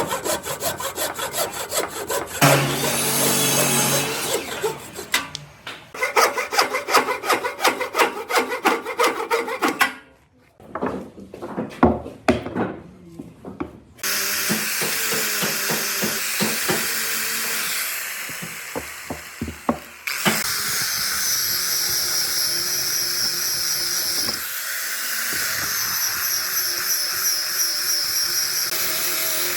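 Woodworking in a shop: a saw cutting wood in fast repeated strokes, a few separate knocks, then a power tool running steadily through the second half, its sound shifting a couple of times.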